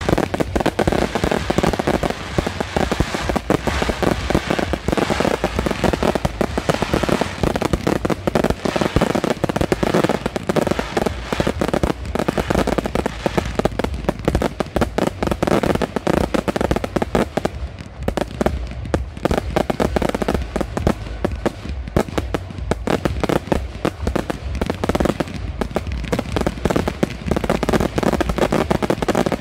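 Fireworks display: a dense, continuous stream of bangs and crackling bursts, one right after another.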